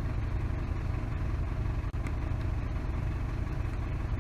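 Isuzu D-Max engine idling steadily, heard from the engine bay, with a momentary cut in the sound about two seconds in.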